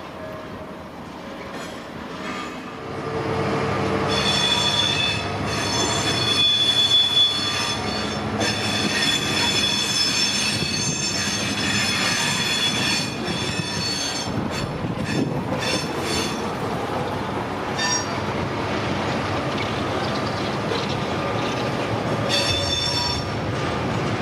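A train running past on the rails, its wheels squealing. The high metallic squeal sets in about four seconds in, fades after about sixteen seconds and comes back briefly near the end.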